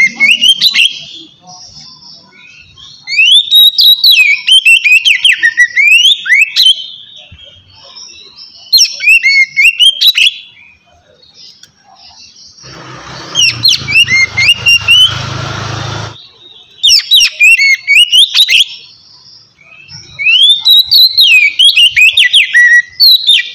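Oriental magpie-robin (kacer) singing loud, clear whistled phrases of rapid sliding notes in its open 'ngeplong' style, about six phrases separated by short pauses. A burst of rushing noise with a low rumble sounds under one phrase a little past the middle.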